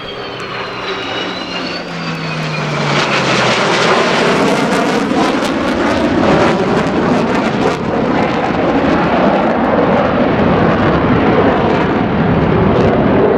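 Military aircraft making a low, loud flyby: a few falling engine tones over the first three seconds, then dense engine noise with crackle building to a steady, loud level.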